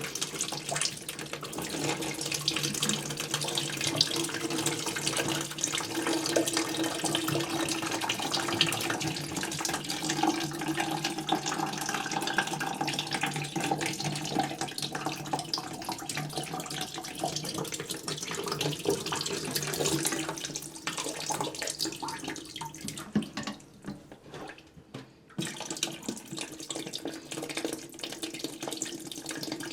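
Water from a toilet tank draining out through the loosened supply connection under the tank and pouring into a trash can, a steady trickling pour that briefly falters about three quarters of the way through before picking up again.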